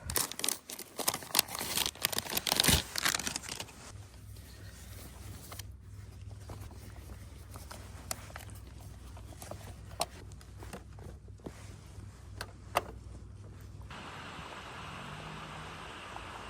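Packaging crinkled and handled with clicks and scrapes for the first few seconds, then scattered clicks over a low steady background, and a steady hiss that starts about fourteen seconds in.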